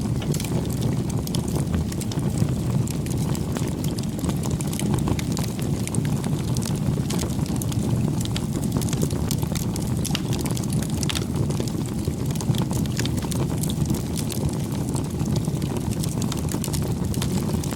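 Campfire crackling: frequent small sharp pops and snaps over a steady low rush of burning.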